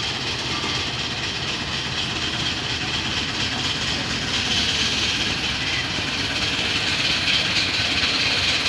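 Miniature railway train running: a steady rumble and rail noise that grows a little louder about halfway through.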